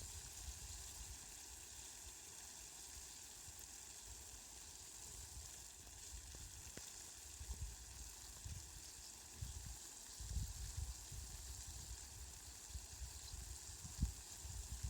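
Steady, faint hiss of falling rain, with irregular low rumbles that come and go, more often in the second half.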